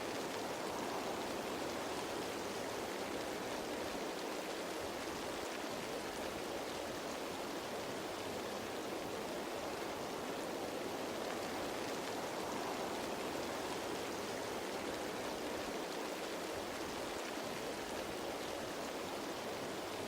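Steady rain falling on leaves, a dense even patter with no single drops standing out.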